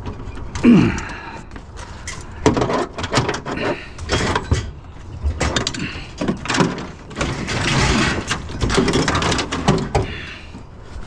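Scrap metal being handled and loaded, with repeated clanks, knocks and rattles. A longer scraping slide comes around eight seconds in, like a long metal piece being pushed into place.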